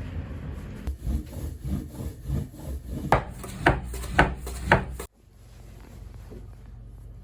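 Rhythmic rubbing and knocking on wood from handmade soba being worked with wooden tools. It ends with four sharper knocks about half a second apart, then cuts off suddenly.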